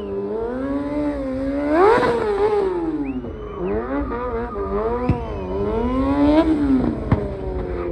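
Car engine revving again and again, its pitch rising and falling in waves, with a brief high tone about three seconds in and a couple of sharp clicks near the end.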